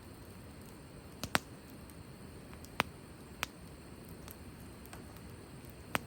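Wood fire crackling: a handful of sharp, irregular pops over a low steady hiss.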